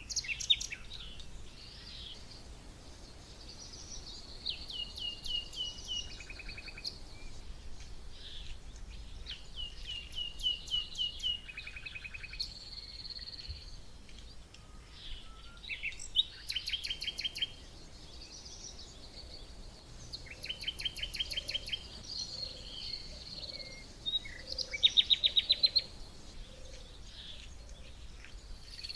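Small songbirds singing and chirping, with rapid trills of quick repeated high notes about a second long every few seconds; the loudest trill comes near the end.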